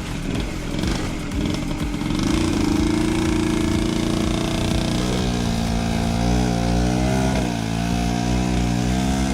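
Dirt bike engine running, its pitch uneven for the first two seconds, then held fairly steady with small rises and dips in revs.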